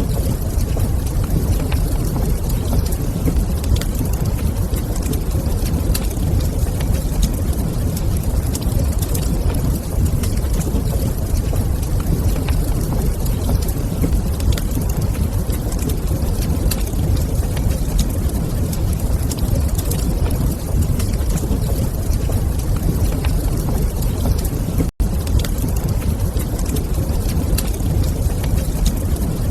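Wood fire burning in a fireplace: a steady low rumble with scattered small crackles and pops. The sound drops out for a split second about 25 seconds in.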